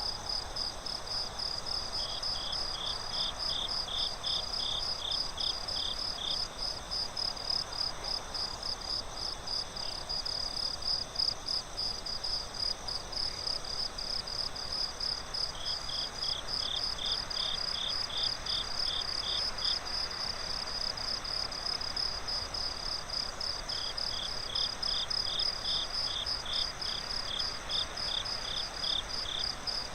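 Night crickets chirping steadily in a quick, even rhythm, over a soft hiss of forest ambience. A second, lower insect chirps in three bouts of a few seconds each, at about two or three chirps a second.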